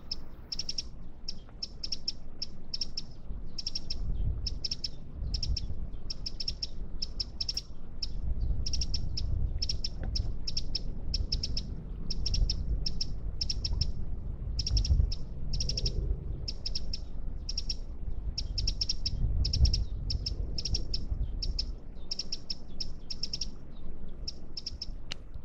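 A small bird calling over and over, short high chirps about two to three a second with hardly a pause, over a low rumble.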